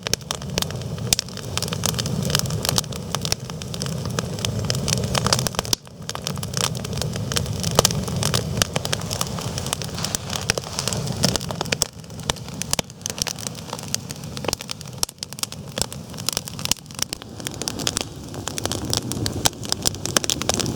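Wood campfire crackling and popping with many sharp snaps, over a low steady rumble.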